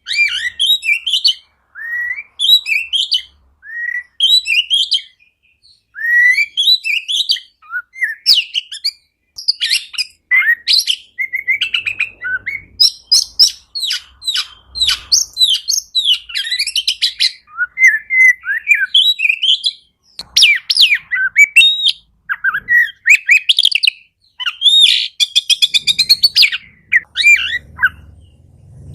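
Oriental magpie-robin (kacer) singing: a varied song of quick whistled notes, slurs and chattering trills in short phrases, coming thicker and without pauses in the second half.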